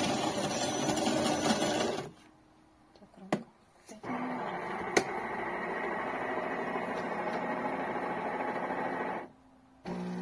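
A loud burst of rattling noise for about two seconds, then, after a short pause with a click or two, a small electric motor runs steadily for about five seconds and stops.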